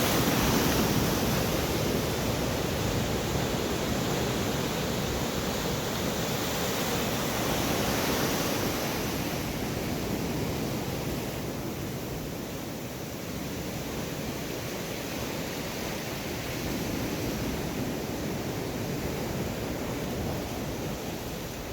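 Storm-driven sea surf rushing and breaking on the shore, with strong wind, a steady roar that eases slightly about halfway through.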